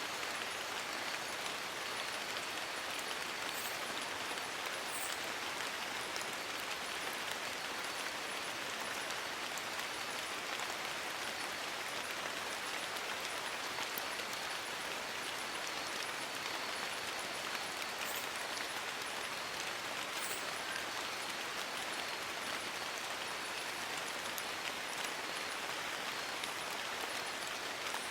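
Steady rain falling on forest leaves, an even hiss with a few sharper drips.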